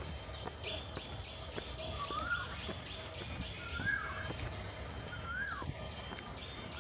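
A bird repeating a short whistled call that rises and then drops, three times about a second and a half apart, over a steady low background hum.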